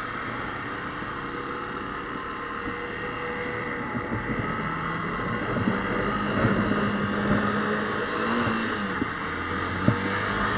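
Motorcycle engine running while riding, mixed with steady wind and road noise on the microphone. A short knock comes near the end.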